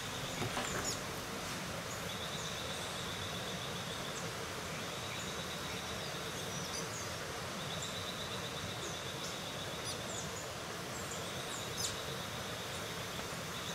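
Natural ambience: an insect's high, pulsing buzz that comes in several bouts of about two seconds, with scattered short bird chirps over a steady background hiss.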